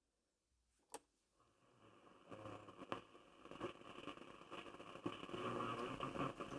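A single click about a second in, then faint shortwave static from a Grundig Satellit 3400 world receiver on its SW9 band, hissing and crackling and growing louder toward the end.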